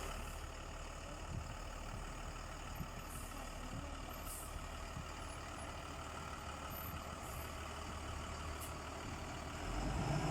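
Blue Bird TC2000 bus's Cummins diesel engine idling steadily, growing louder near the end.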